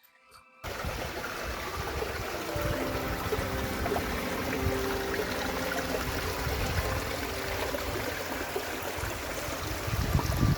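A stream of water rushing and splashing over rocks, a steady wash of water noise that starts abruptly about half a second in. Some low bumps come near the end.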